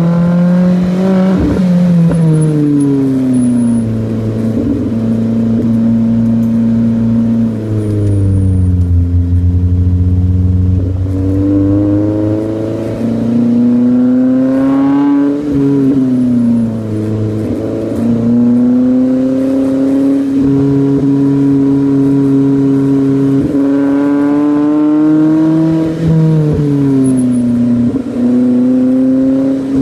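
Subaru Pleo RS's small supercharged four-cylinder engine running through a 5ZIGEN aftermarket muffler on a catalyst-free mid-pipe. The revs climb and drop several times, with steady stretches in between and a few quick falls in pitch.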